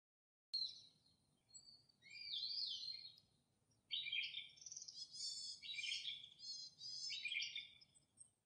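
Songbird chirping and warbling in a run of short gliding phrases, starting abruptly about half a second in.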